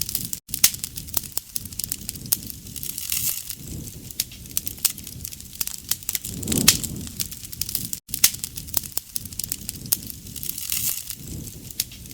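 Campfire crackling, with many sharp snaps and pops over a low rush of burning wood. The same stretch of crackling repeats about every seven and a half seconds, with a brief dropout at each seam of the loop.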